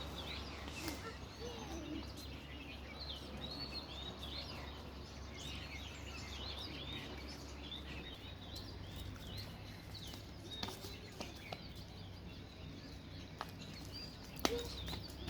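Baby nightingales chirping: many short, high, rising and falling chirps in quick succession, thinning out in the second half, over a steady low hum.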